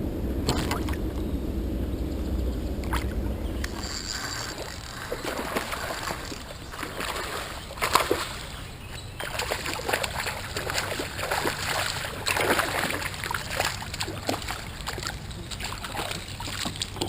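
Water splashing and sloshing around a kayak in irregular short splashes. A low wind rumble on the microphone fills the first few seconds.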